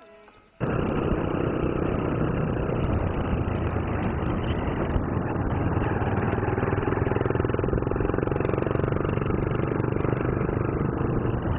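Motorcycle running at speed on a ride, a steady engine drone mixed with wind noise. It cuts in abruptly about half a second in.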